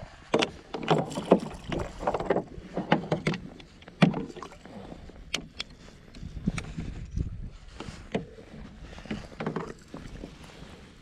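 Irregular knocks, clicks and rattles from handling gear on a plastic fishing kayak, with a few sharp louder knocks about a second and about four seconds in, as a small hooked bass is brought in.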